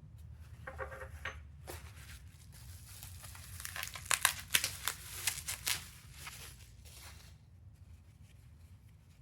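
Packing material being crinkled and torn open by hand: bubble wrap and tissue paper pulled off a small figurine, with a cluster of louder rips about halfway through.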